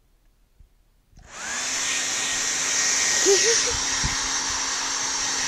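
Handheld hair dryer switched on about a second in, then running steadily with a loud rushing blow and a high whine.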